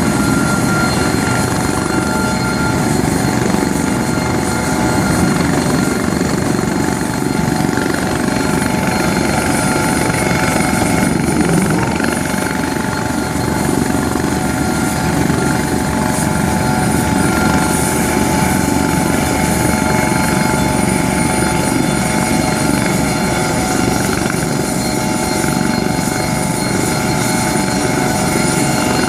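Aircraft engine running steadily and loudly, a dense rumble with several thin steady whining tones above it.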